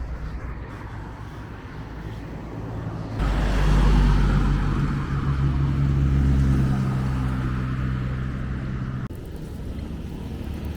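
A motor vehicle's engine running close by, with a steady low hum and hiss. It comes in suddenly about three seconds in and cuts off sharply near the end, over a low rumble.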